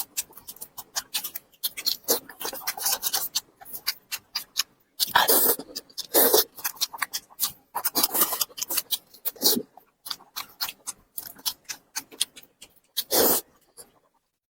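Close-miked eating mouth sounds: wet chewing and lip smacks in quick, irregular clicks, with a few louder bursts about five, nine and thirteen seconds in.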